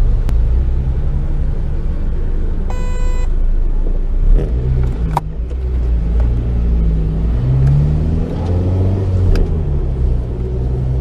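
Honda Civic Type R (EP3) 2.0-litre four-cylinder engine heard from inside the cabin, pulling away at low speed with the engine note rising in pitch about eight seconds in. A short electronic beep sounds about three seconds in, and a sharp click about five seconds in.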